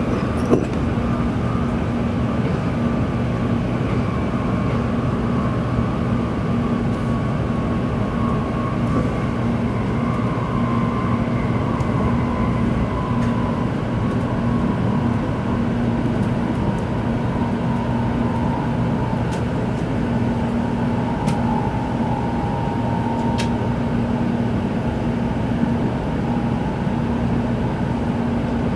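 Tōkaidō Shinkansen train heard from inside the passenger cabin while running: a steady rumble and hum, with a whine that slowly falls in pitch. A single sharp knock comes about half a second in.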